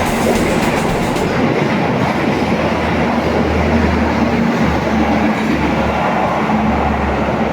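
KRL Jogja–Solo electric commuter train running along the track: a steady rail rumble with a low hum underneath.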